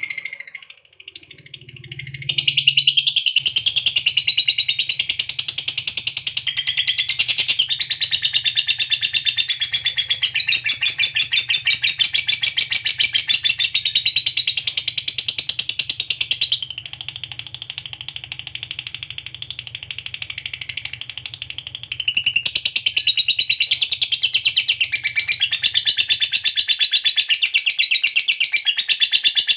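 Lovebird singing its long, unbroken chattering trill ("ngekek panjang"): a very rapid run of high chirping notes. It starts about two seconds in and goes a little softer for several seconds past the middle.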